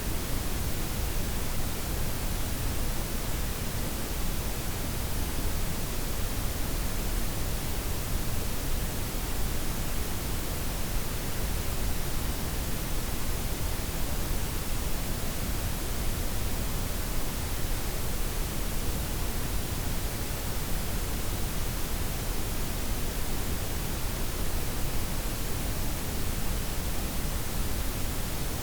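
Steady synthetic blend of white, pink and brown noise with the highs softened: an even, unchanging hiss and rumble with no events.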